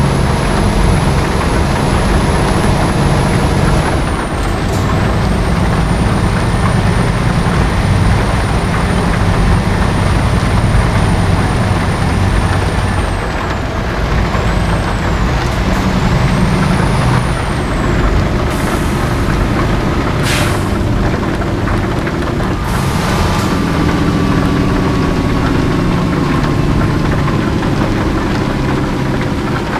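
Heavy Scania truck's diesel engine running steadily while hauling a loaded low loader, with three short air-brake hisses in the second half.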